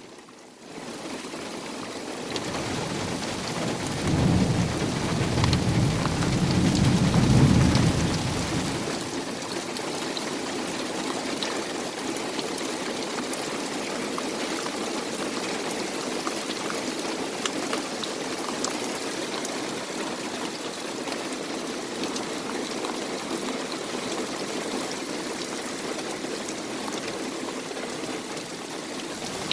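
Heavy rain pouring steadily in a thunderstorm, with a rumble of thunder that swells from about four seconds in and fades out around eight seconds.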